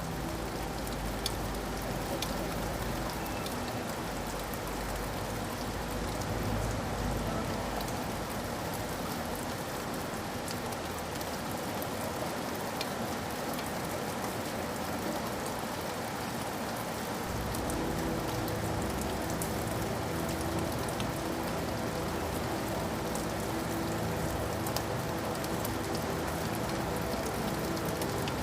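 Steady rain falling, an even hiss with scattered drop ticks and a low rumble underneath that grows a little fuller about two-thirds of the way through.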